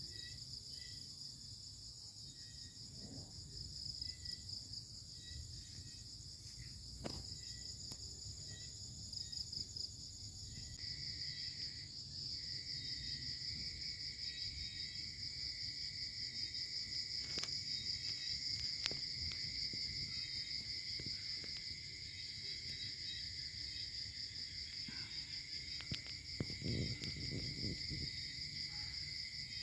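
Crickets trilling in a steady, pulsing chorus, with a second lower trill joining in about a third of the way through. A few sharp clicks and a brief low rumble near the end.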